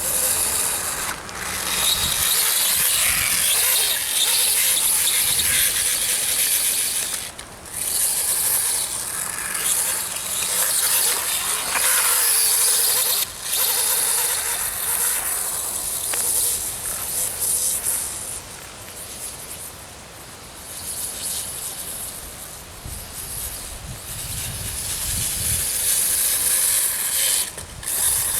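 Electric RC dirt bike running hard with a high-pitched motor whine, cutting out briefly about four times as the throttle drops.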